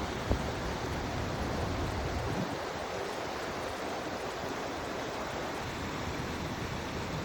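Steady rushing of water from heavy rain and floodwater, with a deep rumble underneath that drops away about two and a half seconds in. A single short knock comes just after the start.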